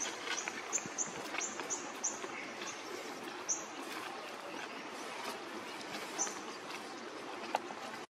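Steady outdoor hiss with a bird giving short, high, falling chirps, a quick run of them over the first couple of seconds, then a few scattered ones. A few light clicks are mixed in.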